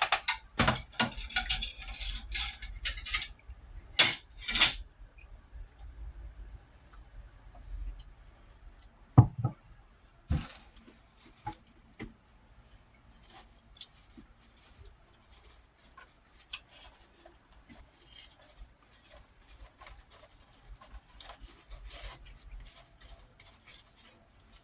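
Eating utensils clinking and scraping against a dish during a meal: scattered light clicks with a few louder, sharp clinks about four to five seconds in and again around nine to ten seconds.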